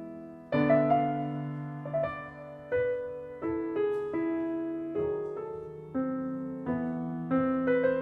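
Calm solo piano background music, slow notes and chords struck one after another, each fading before the next.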